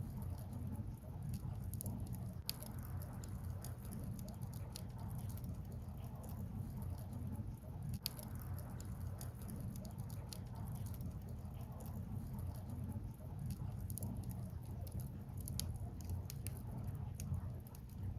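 Firewood burning in an open fire, crackling with scattered sharp pops and ticks over a steady low rumble.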